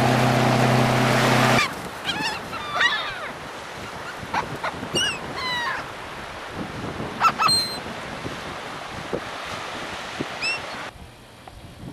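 Gulls calling: a series of short, curved, bird calls, several in quick succession. It opens with a loud steady hum with hiss that cuts off about a second and a half in.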